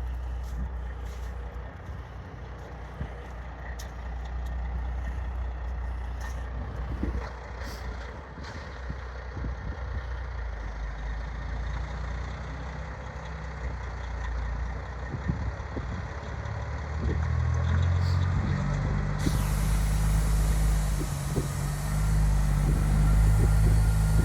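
Heavy diesel truck hauling an oversized mine haul-truck bed rolls slowly by. Its engine runs steadily and grows louder over the last several seconds as it nears.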